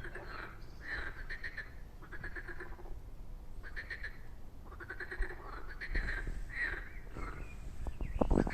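Several frogs croaking in a chorus, with repeated rattling calls of about half a second to a second each that overlap one another. A brief louder low rumble comes in near the end.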